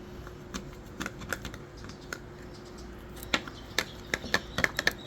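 A spoon clinking and tapping against a small cup while stirring food colouring into water: scattered clicks at first, coming quicker and louder, several a second, from a little past the middle.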